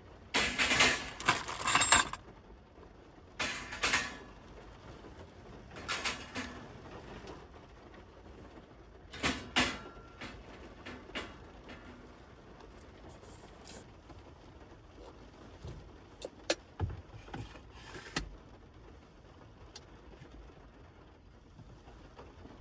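Things being handled inside a car: irregular rustling and clattering, busiest in the first ten seconds, then a few sharp clicks and knocks, over a faint steady hiss of rain on the car.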